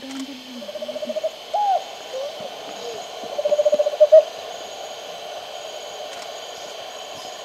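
A bird calling: two fast trills of low whistled notes a few seconds apart, with a single rising-and-falling whistle between them. The second trill swells and ends in two louder notes.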